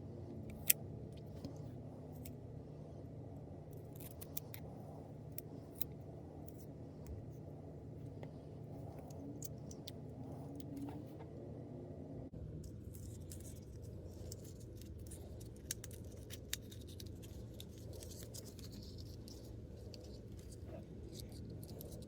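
Small plastic miniatures and their packaging being handled: sparse light clicks and rustles over a low steady hum.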